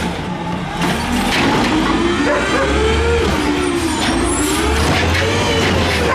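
Peterbilt 320 garbage truck's diesel engine revving hard, its pitch rising and falling several times as the throttle is worked.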